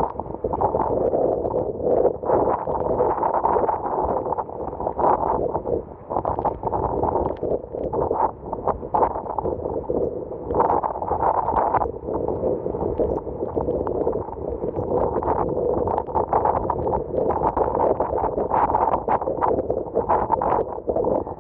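Typhoon storm wind and rough sea, a continuous uneven rush with frequent sudden gusts buffeting the microphone.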